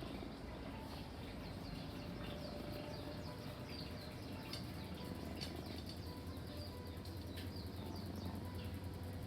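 Faint, scattered chirps of small birds over a steady low background hum.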